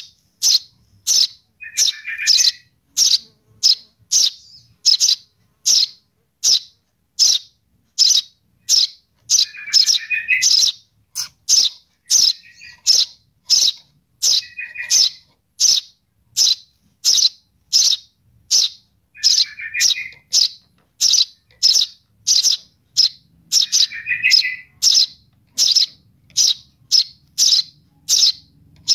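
Sparrow chick calling for its parent: a steady run of short, high chirps about one and a half a second, with a lower, rougher call every few seconds.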